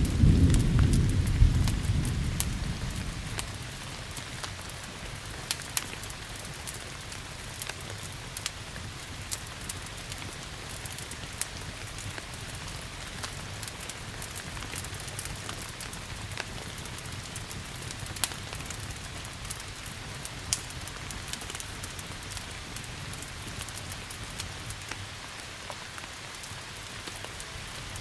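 Thunder rumbling and dying away over the first few seconds, then steady rain hissing, with the scattered sharp pops and crackles of a burning fireplace fire.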